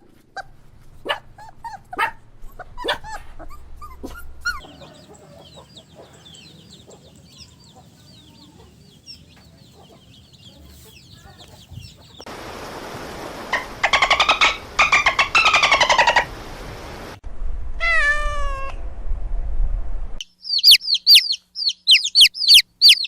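A series of different animal calls, one after another. Near the end comes a fast run of sharp, high, repeated chirps.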